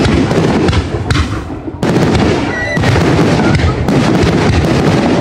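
Fireworks display: a dense, continuous barrage of bangs and crackling, with a brief whistle about halfway through.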